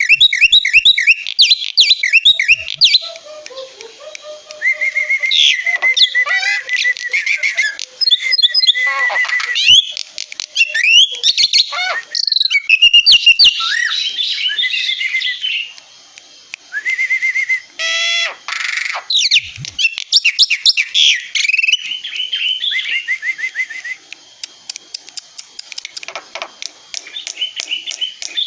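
Black-winged myna (jalak putih) in full, vigorous song: a continuous, varied stream of whistled glides, trills and harsh chattering, broken by quick runs of repeated notes.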